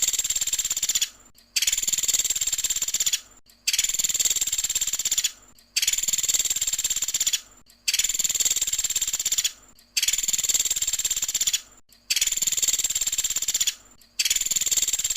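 Pelatuk sampit woodpecker giving its rapid rattling 'tembakan' call, a high buzzy trill about a second and a half long, repeated over and over at about two-second intervals with short pauses between.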